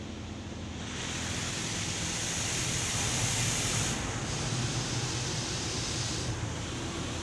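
Automatic car wash spraying water against the car, heard from inside the car: a hissing rush that swells about a second in, dips briefly around the middle and eases near the end, over a steady low hum of machinery.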